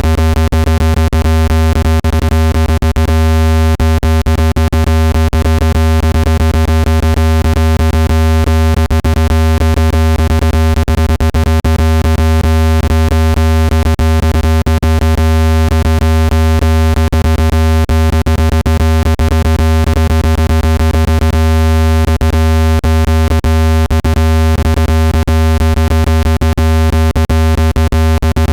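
Synthetic speaker-cleaning sound played loud: a steady deep low hum with a second steady tone above it and a stack of fainter fixed tones, overlaid with rapid irregular clicking. It is meant to vibrate the speaker cone and shake dust out of the grille.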